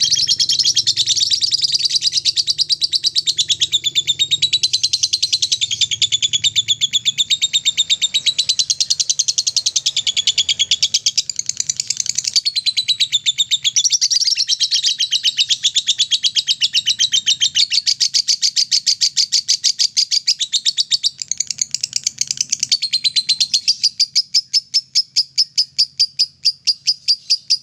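Lovebird singing its 'ngekek' song: a long, unbroken run of rapid, high-pitched chattering notes, growing fainter over the last few seconds.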